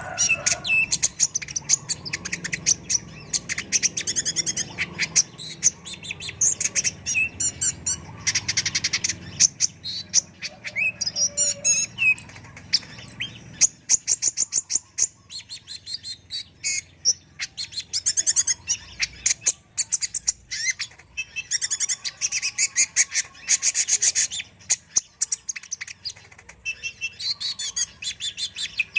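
A kolibri ninja sunbird singing continuously: rapid, high-pitched chirps and trills in dense bursts, with brief pauses between phrases.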